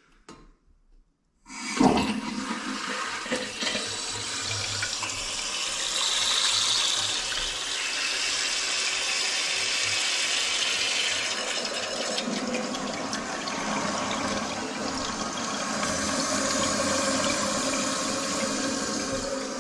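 Water rushing into a newly installed Toto toilet as it is tested for leaks. It starts suddenly about a second and a half in and runs steadily, the sound of the tank filling.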